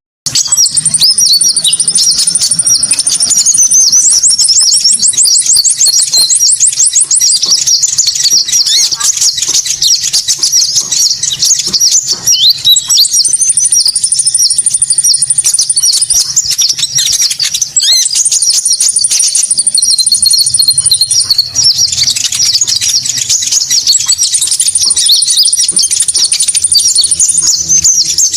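Lure recording of konin bird calls: dense, rapid high chirping with a long, even high trill that comes in four times.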